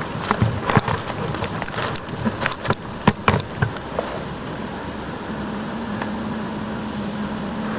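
Irregular crackling and rustling in woodland, like dry leaf litter being stirred, for the first three and a half seconds. Then a small songbird gives a quick run of about five short falling notes, and a low steady hum comes in past the middle.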